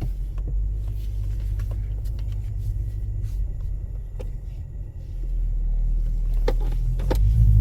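Hyundai Genesis engine running as the car is driven slowly out of the way, heard from inside the cabin as a steady low rumble that dips about five seconds in and then swells louder, with a few light clicks.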